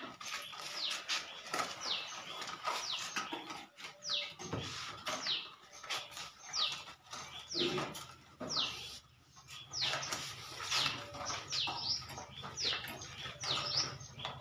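Birds chirping over and over, each call a short downward-sliding chirp, roughly one a second. Under them come scattered clicks and rustling from the bulbs being handled in a cardboard box, and a low steady hum joins about ten seconds in.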